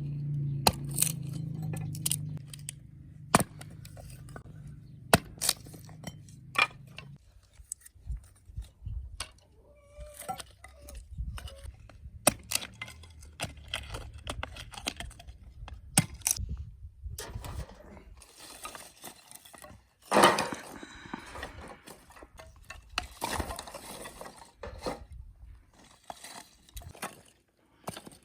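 Cooking utensils and dishes clinking and knocking in scattered sharp taps. A low steady hum runs under the first seven seconds, then stops.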